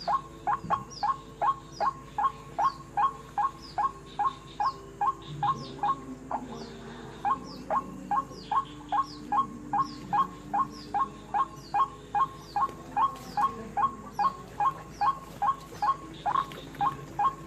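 White-breasted waterhen calling: a long, steady run of short, harsh 'wak' notes, about two to three a second.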